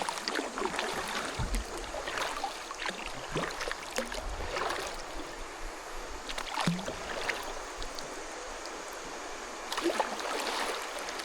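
Creek water running and splashing around a kayak, with irregular short splashes from the paddle.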